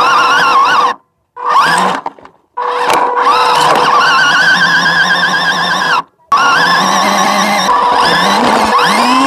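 Engine-like motor sounds of RC trucks, cut off abruptly several times, with a rising rev near the end.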